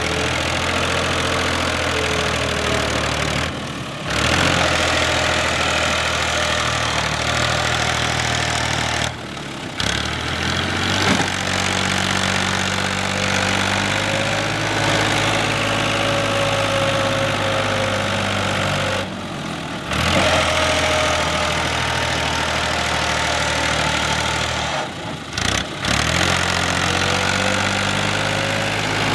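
Fiat 480 tractor's three-cylinder diesel engine running steadily, its pitch shifting slightly, with a few brief breaks where the sound drops out.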